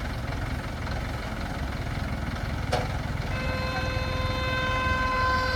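Crane's engine running steadily with a low rumble. A sharp click comes about halfway through, then a horn sounds one steady, held tone for the last couple of seconds.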